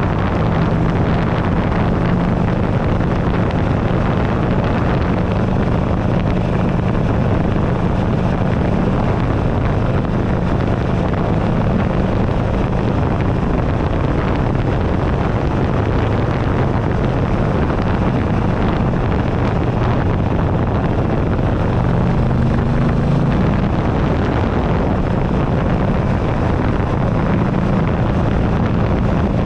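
2008 Buell Ulysses XB12XT's air-cooled V-twin running at a steady cruise, heard through heavy wind noise on the handlebar-mounted camera's microphone. The engine note rises briefly about three-quarters of the way through, then settles again.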